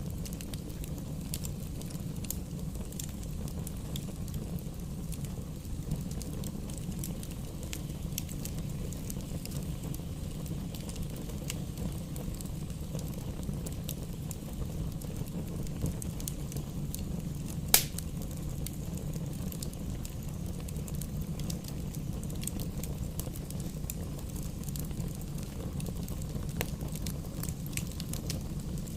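Campfire burning: a steady low rumble with frequent small crackles, and one loud sharp pop a little past the middle.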